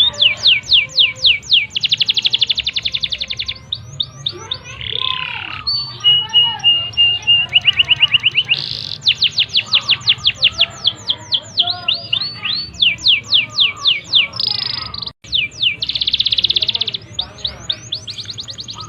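Domestic canary singing a long, continuous song of rapid trills and fast runs of repeated notes, broken only by a brief gap near the end.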